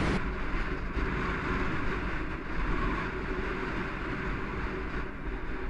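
Steady rushing noise of wind on the microphone outdoors.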